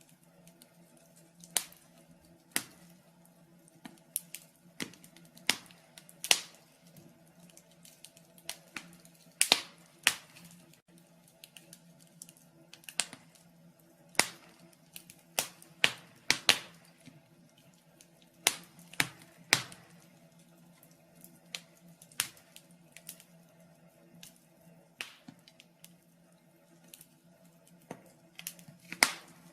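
Fire in a fireplace crackling: irregular sharp pops and snaps, some close together and some a second or more apart, over a faint steady low hum.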